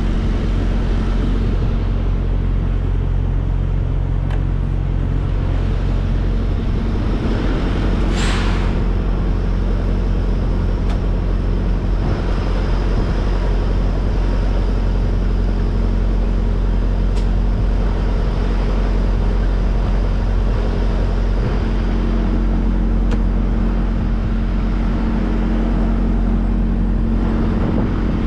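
Semi-truck diesel engine idling steadily, with one short hiss of air about eight seconds in.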